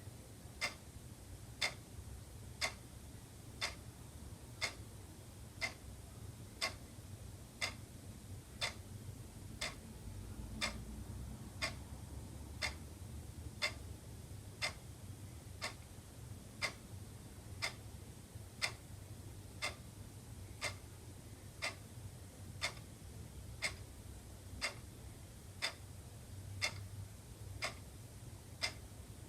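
Wall clock ticking steadily, one sharp tick a second, over a faint low hum.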